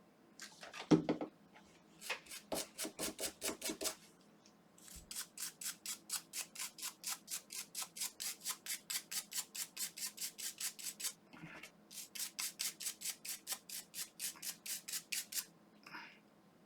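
Rapid back-and-forth scrubbing strokes, about five a second, in three runs with short pauses, as limescale is scrubbed off the inner parts of a Sonicare electric toothbrush. A handling knock comes about a second in.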